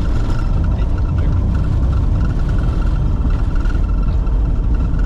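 Cockpit noise of a Bombardier Challenger 605 on its takeoff roll: its two GE CF34-3B turbofans at takeoff thrust and the wheels on the runway make a loud, steady, deep rumble as the jet accelerates toward V1.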